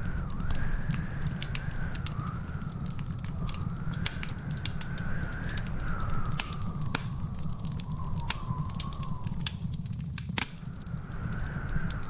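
Wood fire crackling: frequent sharp snaps and pops over a steady low rumble, with a louder pop about ten and a half seconds in. A faint whistle wavers slowly up and down in pitch behind it.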